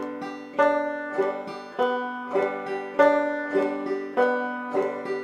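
Five-string banjo played clawhammer style on open strings, a fast, even frailing strum with a strong note about every half second and lighter brush-strokes between.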